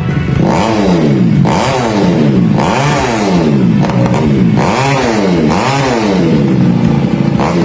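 Small motorcycle engine revved up and down over and over, about once a second, pushed toward high RPM.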